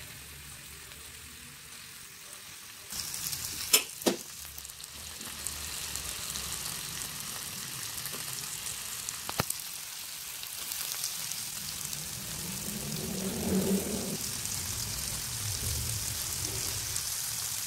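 Oil sizzling in a wok as chopped shallots, garlic, chilli, tomato and bay leaves are stir-fried with a metal spatula. The sizzle gets louder about three seconds in, and the spatula clinks sharply against the wok a few times.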